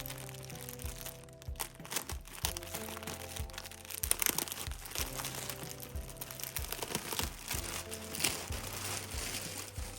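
Packaging being handled, crinkling and crackling in irregular rustles, over soft background music with sustained tones.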